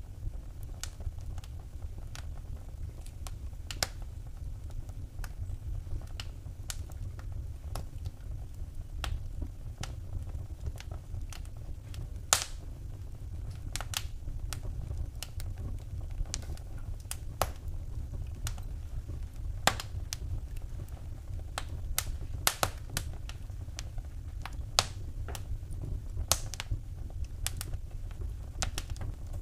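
Wood fire crackling in a fireplace: irregular sharp pops and snaps, a few louder ones, over a steady low rumble of the burning fire.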